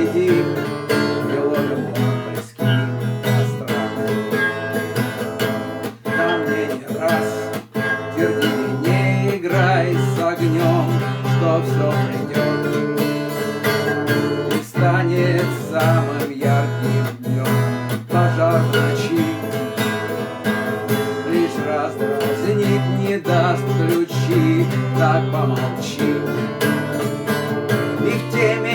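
Acoustic guitar strummed in a steady rhythm, an instrumental passage between sung verses of a song.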